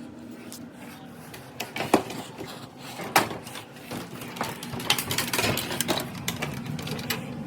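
A run of sharp clicks, knocks and rattles from equipment being handled, with two louder knocks about two and three seconds in and a busy patch of clicking near the end. Underneath is a steady low machine hum.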